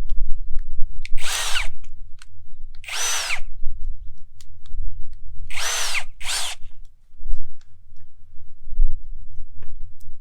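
Cordless drill motor run in four short trigger bursts, each spinning up and winding down again, over a low rumble.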